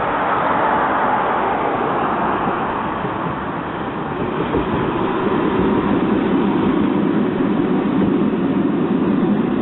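Tram running on its rails, a continuous rolling rumble that grows louder from about halfway through.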